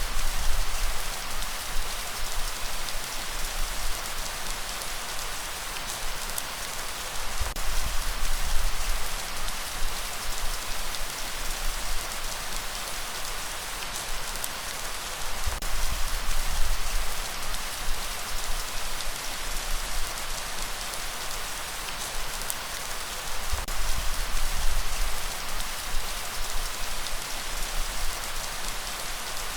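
Steady heavy rainfall, a dense even patter, with a deep low surge swelling up about every eight seconds.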